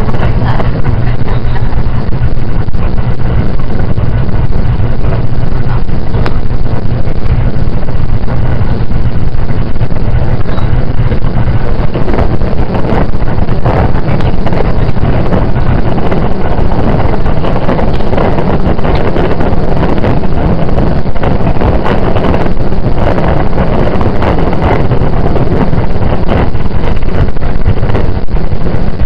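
Running noise of a JR 681 series electric train heard inside the passenger car: a steady rumble of wheels on rail and underfloor equipment, with a constant low hum.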